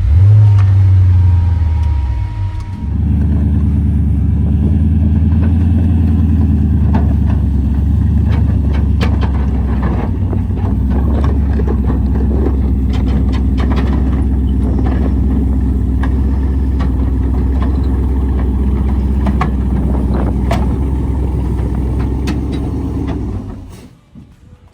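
A motor vehicle engine running steadily and loudly, its sound shifting about three seconds in, with scattered clicks over it; it cuts off abruptly near the end.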